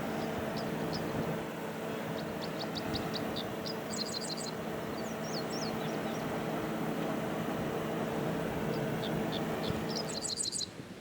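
A train's steady diesel hum and rumble, with small birds chirping in short quick series over it. The train sound cuts off suddenly about ten seconds in.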